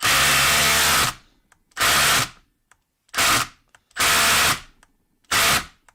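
A cordless impact driver hammering in five short bursts: one about a second long, then four of about half a second, with silence between.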